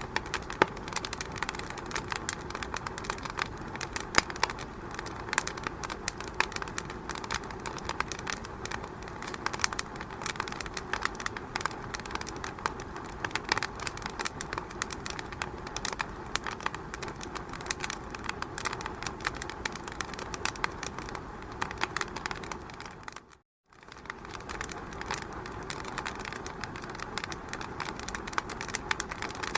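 Fire burning in a fireplace, with dense, irregular crackles and snaps over a steady hiss. The sound cuts out for a split second about three-quarters of the way through, then resumes.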